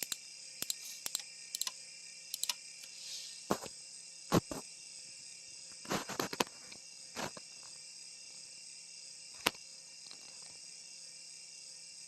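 Scattered sharp clicks from a laptop's keyboard and mouse as it is worked through setup, some coming singly and some in quick clusters, over a steady high-pitched hiss.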